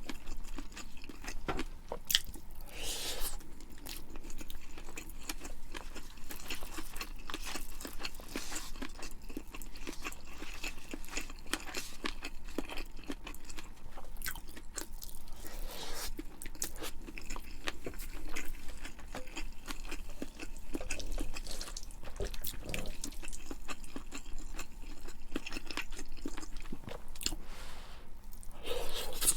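A person chewing and biting food close to the microphone, with many small crunches throughout.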